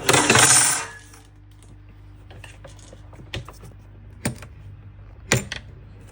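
A metal tool scraping and clinking against the stuck metal shower screen in the group head of a Sage Barista espresso machine as it is forced out: a loud scraping rasp about a second long at the start, then a few sharp metallic clicks.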